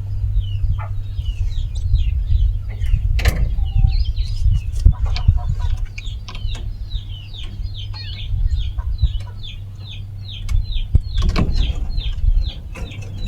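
A bird chirping over and over in short falling notes, about three a second, against a steady low rumble, with a few sharp knocks.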